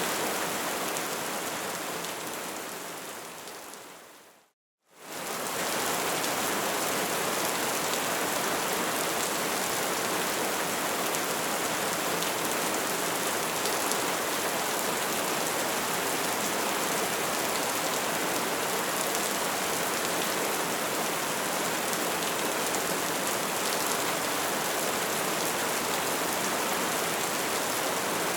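Wood fire burning with a steady hiss and fine crackles. About four seconds in it fades to a brief silence, then comes straight back in, like a loop or edit point.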